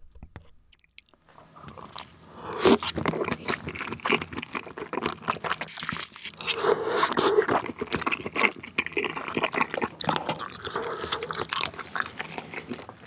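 Close-miked chewing of a mouthful of fish cake in spicy tteokbokki sauce: wet, sticky mouth sounds with dense irregular clicks, starting about two seconds in.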